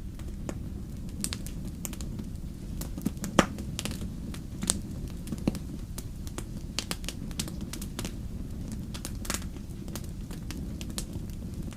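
Wood campfire burning, with a steady low rumble of flames and irregular sharp crackles and pops from the logs; the loudest pop comes about three seconds in.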